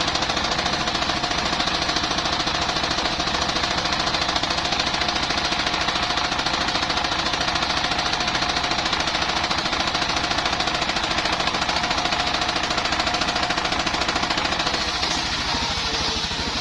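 Engine-driven circular sawmill running steadily, with the fast even knock of its engine under a steady whine from the saw. Near the end the sound lightens a little.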